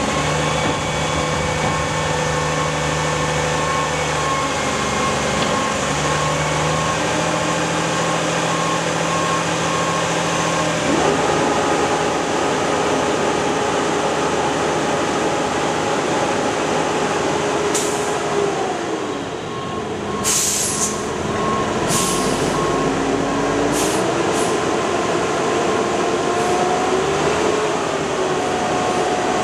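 Mack Granite roll-off truck running as its Galbreath hydraulic hoist works, the pump and engine tones stepping and gliding in pitch as the hoist moves. A backup alarm beeps at the start and again over the last third, and several sharp sounds come in the second half.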